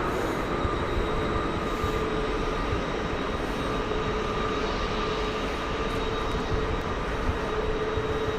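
Electric train running steadily: a constant rumble with a steady hum and a higher whine that do not change in pitch.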